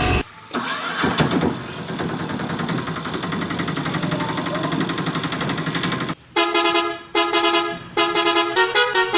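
Electronic sound effects from a battery-operated toy vehicle: a buzzy engine noise for about six seconds, then a string of short electronic horn beeps.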